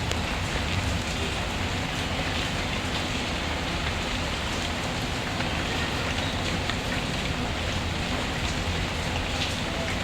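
Steady rain falling, a constant hiss with many small scattered ticks and pops.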